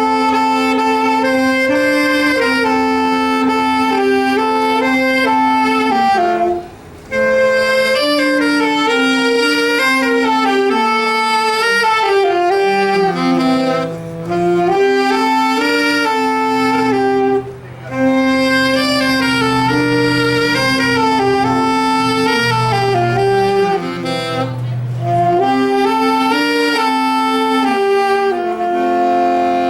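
A small wind ensemble playing a slow, chordal piece in several-part harmony, with short breaks between phrases and a held chord near the end.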